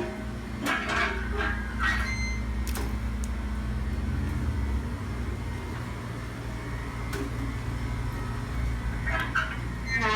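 Steady low mechanical hum, with a few short clicks and knocks and brief snatches of voice.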